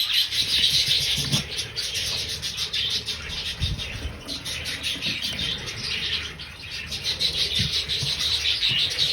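A large flock of budgerigars (parakeets) chattering, many quick overlapping chirps and warbles running on without a break.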